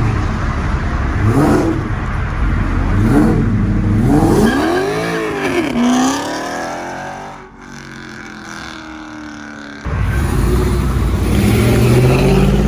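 Car engines revving. Two short blips come first, then a hard rev that rises and falls, and a car pulling away with its pitch falling as it goes. About ten seconds in, the sound cuts abruptly to another car accelerating hard, its engine pitch climbing near the end.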